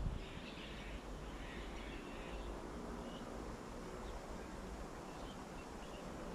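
Faint chirping of small birds for about the first two seconds, then a few short isolated chirps, over a steady low outdoor rumble.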